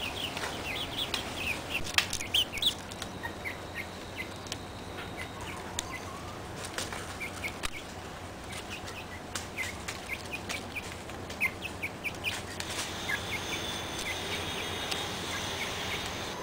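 Birds chirping: many short, high chirps, with a few sharp clicks among them.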